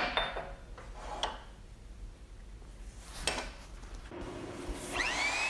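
A few light knocks. Then, near the end, an electric motor spins up with a rising whine and settles into a steady high whine: a magnetic-base drill press starting up.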